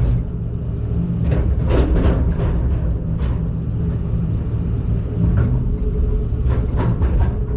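Heavy diesel machinery engine running steadily with a low rumble, with a few short knocks or clanks over it.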